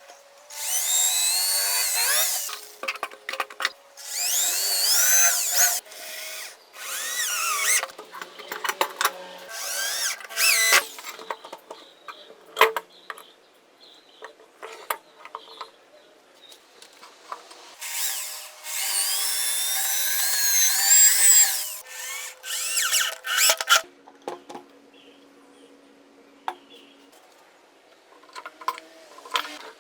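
Power drill run in about six short bursts, its motor whine climbing in pitch as it spins up each time, with knocks and handling noise in the pauses between.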